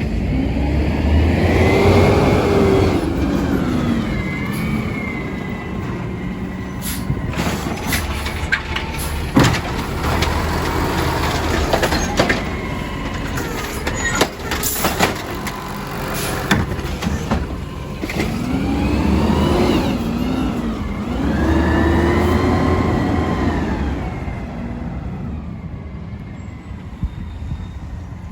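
Garbage truck's engine revving up and falling back twice, with metallic clanks and knocks in between.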